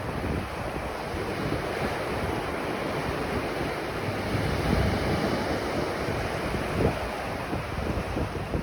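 Ocean surf washing onto a beach, a steady wash of breaking waves with wind buffeting the microphone in low rumbling gusts. A brief louder gust about seven seconds in.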